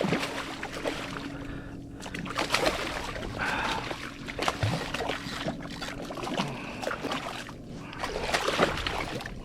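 Water splashing and sloshing around a fishing kayak as a hooked redfish is fought, with irregular clicks and knocks throughout.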